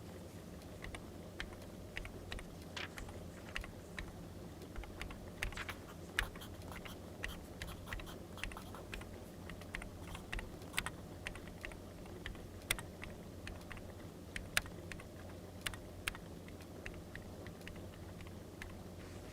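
Crackling wood fire: irregular sharp snaps and pops, several a second, a few louder than the rest, over a low steady background.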